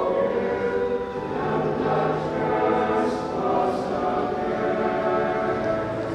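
A choir singing in sustained, held notes that change pitch every second or so.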